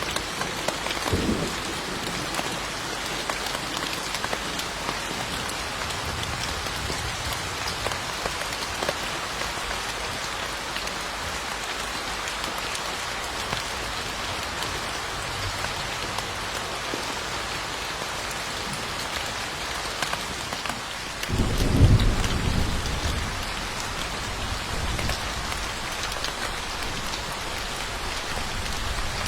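Steady rain falling, with thunder rumbling low: a brief rumble about a second in and a longer, louder one about three quarters of the way through.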